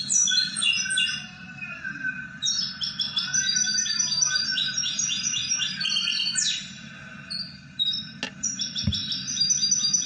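European goldfinch singing: rapid tinkling, twittering phrases, with a short pause about two seconds in and another around seven seconds in. A sharp click and a low thump near eight seconds in.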